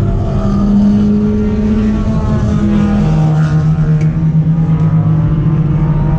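Race car engine running at a steady speed, its note dropping to a lower steady pitch about three seconds in.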